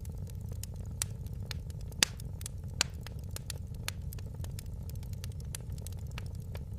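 Wood fire in a fireplace crackling: frequent small pops and snaps, with sharper louder pops about one, two and three seconds in, over a steady low rumble.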